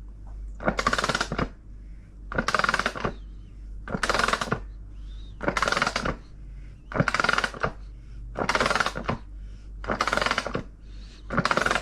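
Ratchet wrench clicking in repeated strokes, about one every second and a half, turning the nut of a bolt-and-washer puller that presses a new 6205 bearing into a washing machine tub.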